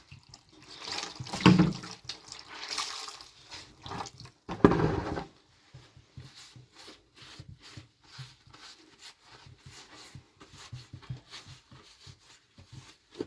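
Water splashing and dripping, with two louder bursts in the first five seconds, then faint scattered ticks and taps.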